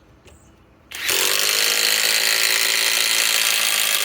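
Flex compact cordless impact driver driving a 4-inch TimberLOK structural screw, hammering steadily at full power. It starts abruptly about a second in and runs at an even level.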